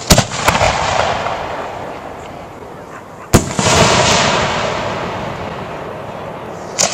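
Aerial firework shells bursting: a few sharp bangs at the start, one loud bang a little before halfway followed by several seconds of echoing rumble that slowly fades, and another bang near the end.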